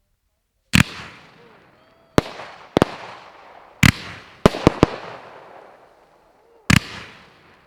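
Fanned firework cake ('Chemical Romance') firing comet shots: about eight sharp bangs, three of them in quick succession about four and a half seconds in, each trailing off in a fading hiss.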